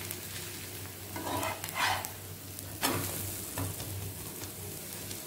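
A folded dosa sizzling on a hot tawa while a flat spatula scrapes under it and turns it over, with a scraping sound about a second and a half in and a sharp knock of the spatula on the pan near three seconds.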